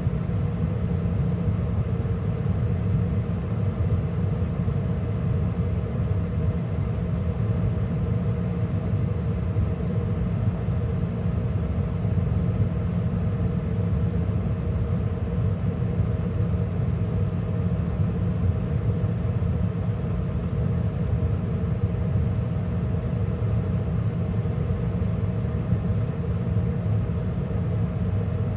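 A 2013 Carrier gas furnace running steadily mid heating cycle, with the burners lit and the inducer fan and circulation blower turning. It makes an even, low rumble with a steady hum.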